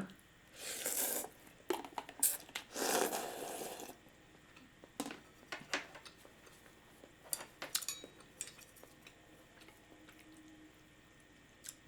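Eating sounds from a bowl of takeout ramen: two noisy slurps of about a second each in the first few seconds, then scattered clicks of chopsticks or utensils against the container.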